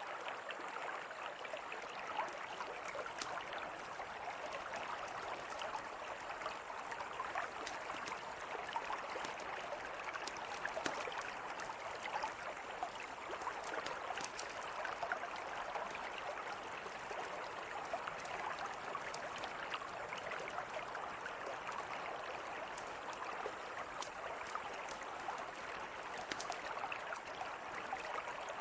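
A river flowing in a steady rush, with scattered sharp crackles and pops from a wood campfire.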